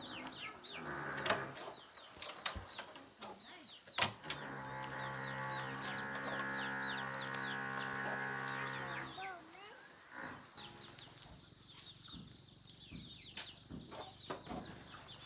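Small birds cheeping repeatedly in short, high chirps. A steady humming drone from about four to nine seconds in is the loudest sound, and there are a few sharp knocks.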